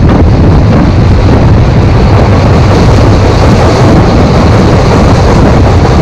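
Passenger train running at speed, recorded from the side of a moving coach: a steady rumble of wheels on track mixed with heavy wind buffeting on the microphone.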